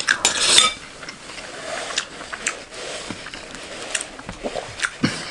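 Crunching and chewing a mouthful of chatpatey, a crisp puffed-rice snack mix. A dense crackle comes as the spoonful goes in, followed by scattered crisp crunches about once a second.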